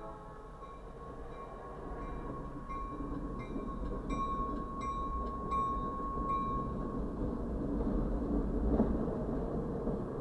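Freight train of covered hopper cars rolling slowly past, with the low rumble of its diesel locomotive growing as it approaches. A high, evenly repeated ringing, about three strokes every two seconds, sounds for several seconds and stops about seven seconds in.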